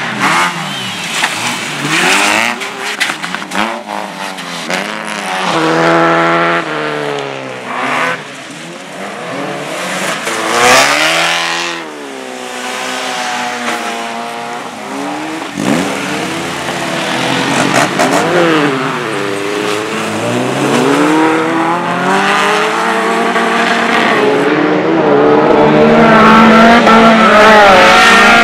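Racing car engines revving hard, their pitch climbing and dropping again and again through gear changes as the cars pass, getting louder near the end.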